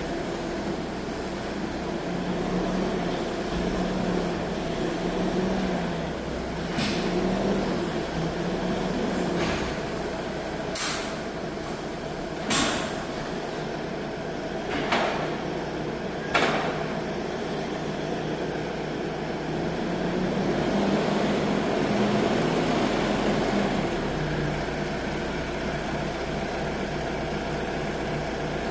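Holder C70 compact tractor's engine running steadily, its note rising and falling a little. Four sharp knocks come about halfway through.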